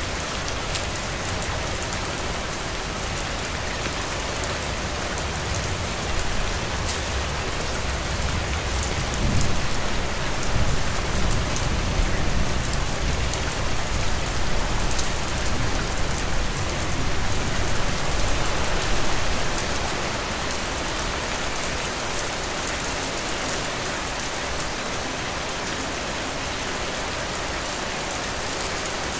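Heavy rain falling steadily on a roof, a dense even hiss. Through the middle stretch a deeper low rumble swells and fades.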